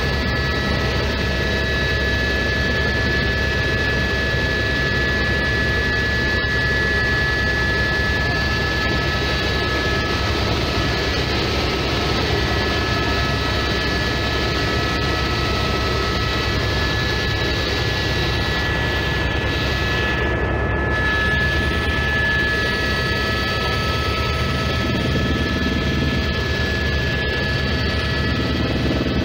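Airbus Squirrel helicopter in flight, heard from inside the cabin: a steady, high turbine whine over the constant rumble of the rotors.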